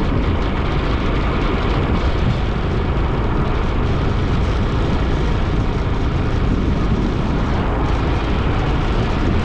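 Steady wind rush buffeting an action camera's microphone on a moving motorbike, mixed with road and engine noise, heaviest in the low rumble.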